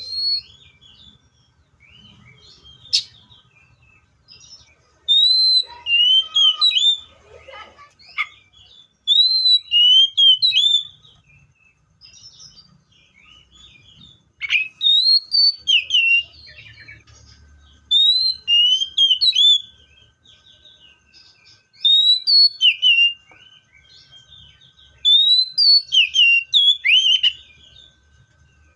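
Seychelles magpie-robin singing: short phrases of loud, clear whistles sliding up and down, repeated six times, a few seconds apart.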